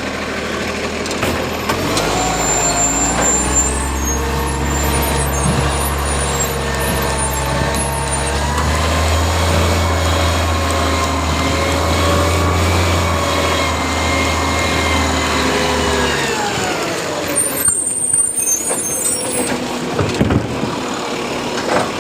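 Garbage truck's diesel engine revving up and holding at raised revs for about fourteen seconds, then dropping back to idle.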